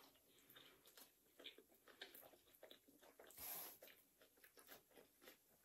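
Faint chewing and eating sounds at a meal: soft mouth noises and light scattered clicks, with one short, slightly louder hiss about three and a half seconds in.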